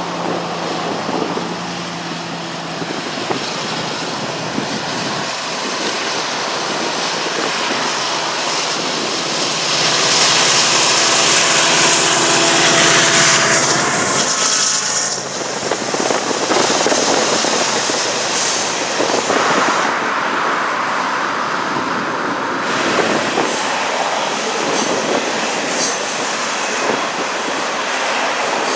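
Slow-moving freight train passing. In the first half the diesel locomotives' engines run with a steady hum, and from about ten seconds in the cars roll by with a steady noise of wheels on rail.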